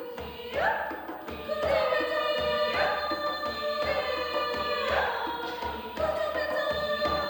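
A choir singing held chords, the voices sliding up into each new chord every second or two, over light, regular percussion strikes.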